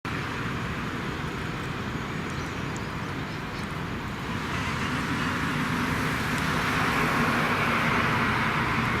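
Street vehicle noise, a steady rush that grows louder from about halfway through as a vehicle draws nearer, with a low hum coming in.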